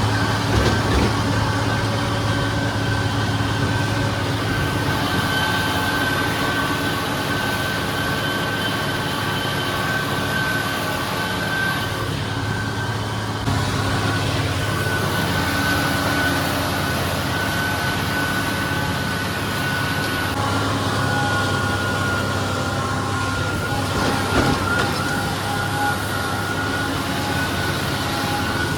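Tractor engine running steadily under load with a thin, steady whine on top, as when mowing hay.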